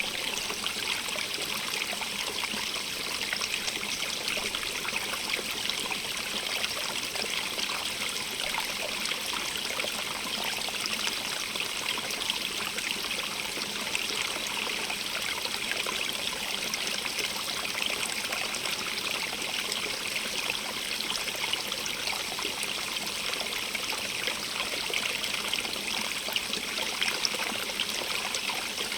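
Running water in a stream, a steady rushing with fine splashing and trickling.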